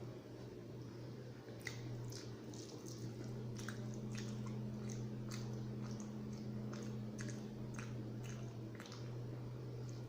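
Close-up chewing and wet mouth sounds of someone eating rice and curry: irregular smacks and soft clicks, many a second at times. Beneath them runs a steady low hum.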